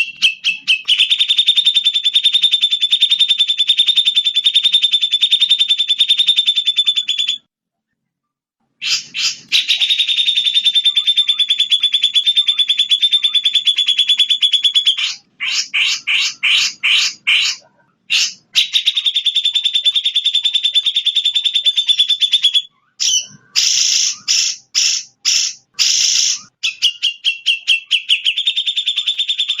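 Recorded bird song played as a masteran track: a very fast, buzzy trill held for several seconds at a time, broken by short gaps. Twice, around the middle and again later, it switches to slower, louder separate notes, about five a second.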